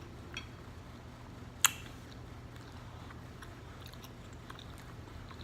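A person chewing food with small wet mouth clicks, over a low steady hum. One sharp click, the loudest sound, comes about a second and a half in.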